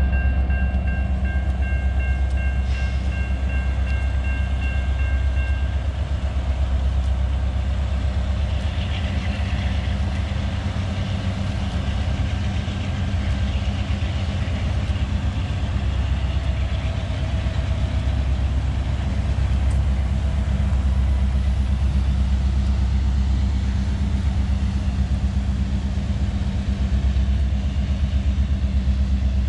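Freight train approaching from a distance: a steady low rumble of diesel locomotives, with a three-note horn sounding for about the first six seconds.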